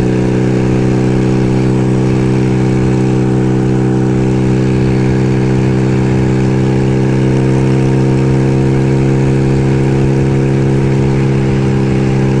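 1975 Kawasaki KZ400S parallel-twin motorcycle engine running at a steady, unchanging pitch.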